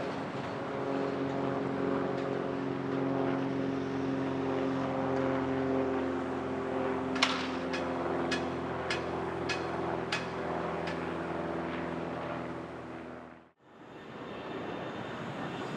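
Light single-engine prop plane, a Mooney M20J with a four-cylinder Lycoming piston engine, droning steadily as engine and propeller run. A row of about eight sharp clicks sounds around the middle. The sound cuts off abruptly near the end and a different, noisier sound follows.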